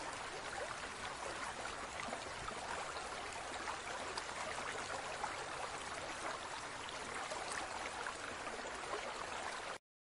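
Steady trickling water, with small ticks and patters and no animal calls.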